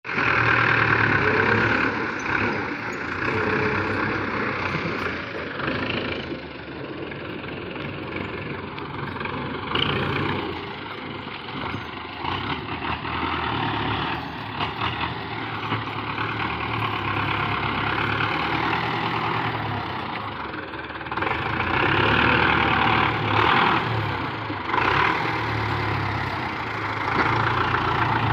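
Tractor engine running, its level swelling and dipping.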